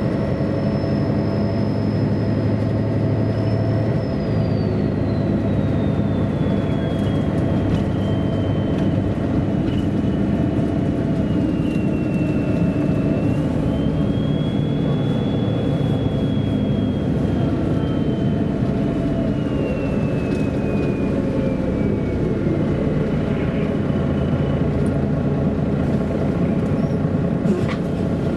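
Interior sound of a MAN A23 articulated diesel city bus underway, the engine running steadily. A thin high whine slides slowly down in pitch, rises again about halfway through, then falls away once more.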